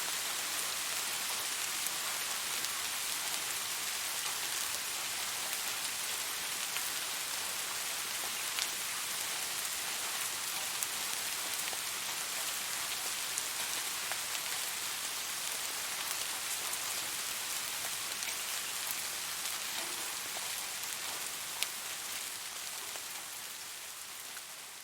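Steady rain falling, an even hiss with scattered drop ticks and a few louder single drops. It fades down over the last few seconds.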